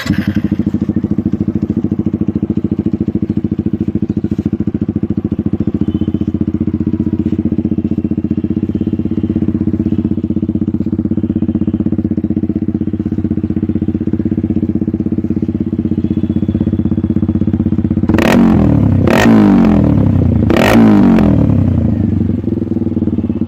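TVS Apache RTR 200 4V's single-cylinder engine idling steadily through an aftermarket exhaust, then revved in three quick throttle blips near the end, each rising and falling back to idle.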